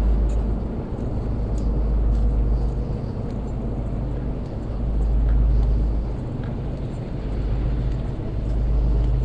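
Heavy machinery running with a steady low drone and hum, over a deep rumble that swells and fades every few seconds, with a few faint clicks.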